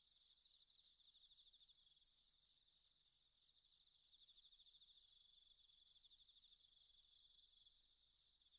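Faint chirping of insects such as crickets: high-pitched pulsed trills, one fast and continuous, another in short runs of separate chirps, overlapping.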